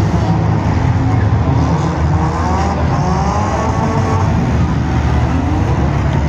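Engines of several compact demolition derby cars running hard, one revving up and down about two to four seconds in.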